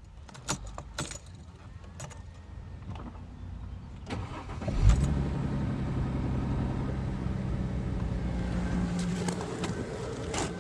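A few sharp clicks, then the 3.0-litre M272 V6 of a Mercedes C280 (W204) cranks and catches about five seconds in, and runs on steadily. The engine rattles for the first seconds after the cold start; the owner wonders whether an oil pump or oversized crankshaft bearings are to blame.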